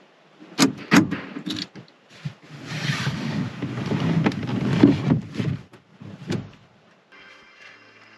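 Pickup truck door being worked from inside: a few sharp clicks of the handle and latch, a stretch of rustling and movement as the door opens, and a thud about six seconds in.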